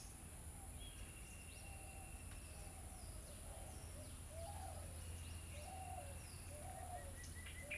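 Birds calling outside: a dove cooing in a soft repeated series of about one call every two-thirds of a second, starting about halfway in, over higher chirps from other birds. A low steady hum sits underneath.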